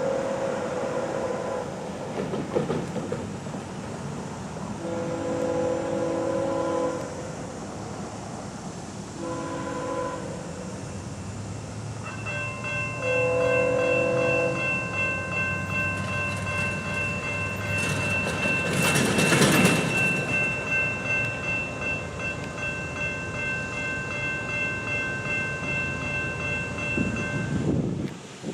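A train's air horn sounding four blasts (long, long, short, long), the standard grade-crossing signal, as the train approaches and passes. A steady high whine follows the last blast and stops shortly before the end, with a loud rush of passing-train noise about two-thirds of the way through.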